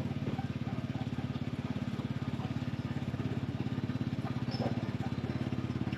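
Small motorcycle engine of a tricycle running steadily with an even, rapid pulse, heard from inside the sidecar while riding.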